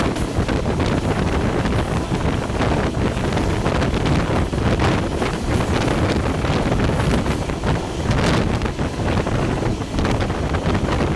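Wind buffeting the microphone over the continuous running noise of a moving passenger train.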